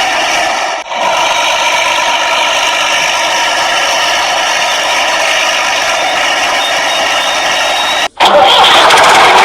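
A steady engine-like motor drone with a whining hum. It drops out briefly about a second in and again near the end, and comes back louder after the second gap.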